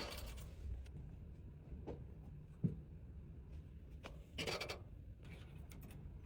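Items being handled and packed by hand: short scratchy rustles, a few light ticks, and one sharp knock about two and a half seconds in.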